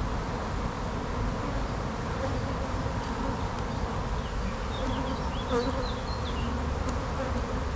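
Honey bees from an opened hive buzzing in a steady, continuous hum.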